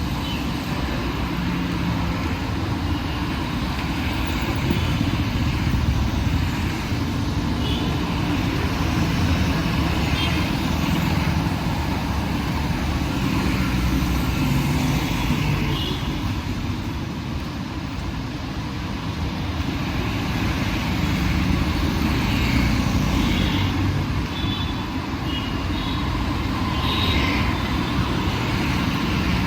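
Steady low rumble of busy city road traffic, with a few brief high-pitched sounds over it at intervals.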